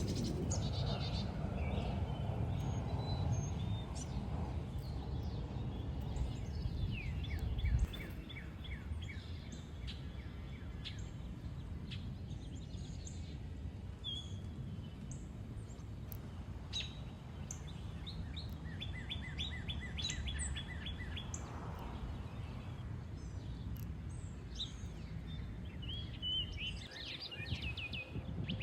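Wild birds chirping and calling, with several quick trills of rapidly repeated notes, over a steady low background rumble that drops sharply about eight seconds in.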